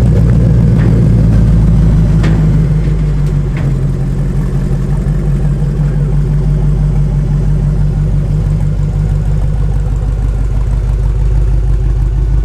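Swapped Chevrolet L83 5.3 L V8 in a Mazda RX2, idling steadily as the car creeps forward at walking pace; it is a little louder for the first two seconds.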